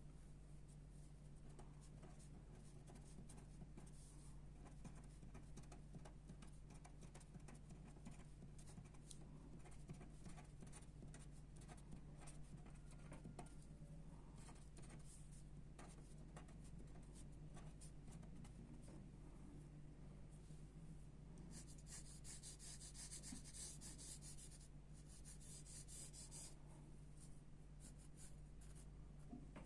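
Faint pencil graphite scratching on paper in short strokes, with a spell of quick, dense scribbling strokes about two-thirds of the way through, over a steady low electrical hum.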